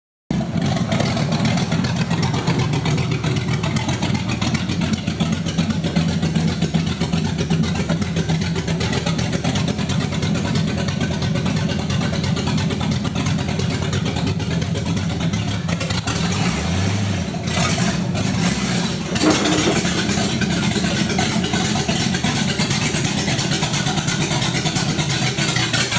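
Fox-body Ford Mustang engine running steadily at idle.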